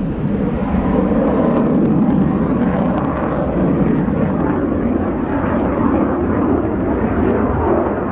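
Jet noise from a MiG-17F (Lim-5) with its Klimov VK-1F turbojet flying a display, heard from the ground as a loud, steady rumble.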